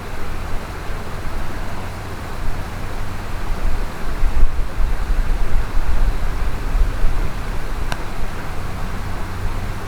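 Mountain stream water rushing steadily, a constant hiss with an uneven low rumble. One small sharp click about eight seconds in.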